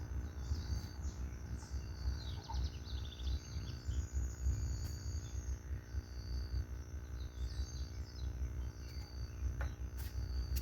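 Outdoor rural ambience: a low steady rumble with crickets chirping over it and a bird giving a short trill a few seconds in. A couple of sharp clicks near the end.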